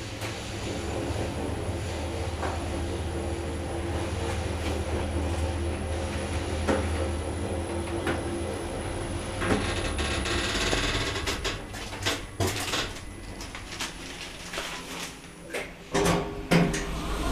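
Otis Gen2 lift in motion: a steady low hum with a few steady tones over it. The hum dies away near the end, followed by a run of clicks and knocks as the lift stops.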